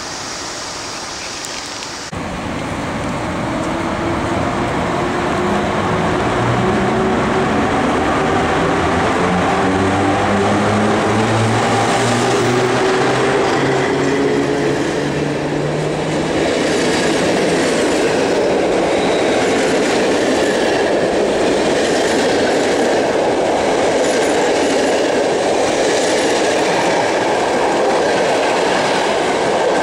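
Electric-locomotive-hauled passenger train pulling out, with a whine that rises in pitch as the locomotive gathers speed. Its coaches then roll close by, wheels clacking over rail joints about once a second.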